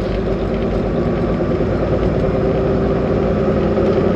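Semi truck's diesel engine running steadily at low speed, a constant drone heard from inside the cab.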